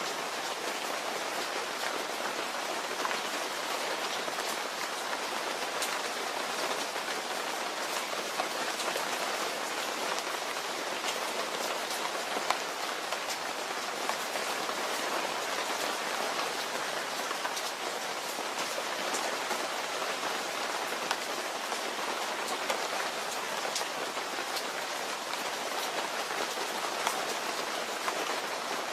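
Steady rain falling, with scattered sharp drop ticks standing out from the even hiss.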